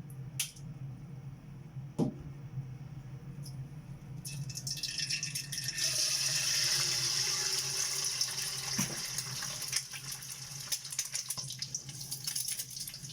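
An egg going into hot oil in a wok starts sizzling about four seconds in, the hiss swelling quickly and then settling into steady frying. A few light taps come before it.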